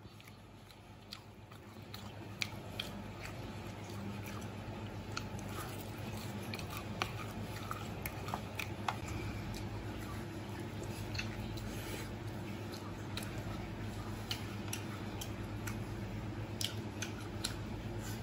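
Close-up chewing and biting into a crispy-skinned fried chicken drumstick: scattered sharp crunches and mouth sounds over a steady low hum.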